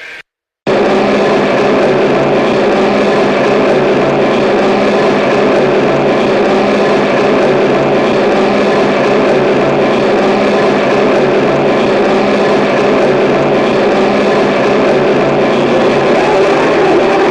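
Harsh noise music. After a brief silence, a loud, dense wall of distorted noise cuts in under a second in and holds steady, with a low hum-like drone beneath it.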